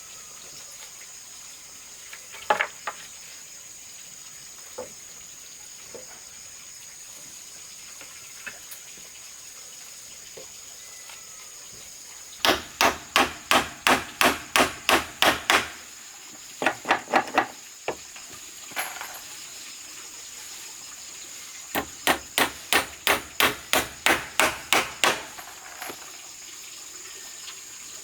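Hammer striking wood in quick runs of about four blows a second, two long runs and a short burst, with a few scattered knocks before them.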